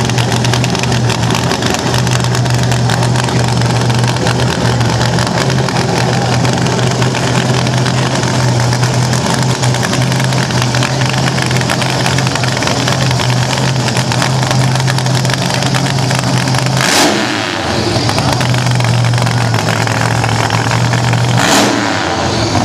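Vintage drag racing car's engine running loudly at idle, with two short sharp revs of the throttle near the end.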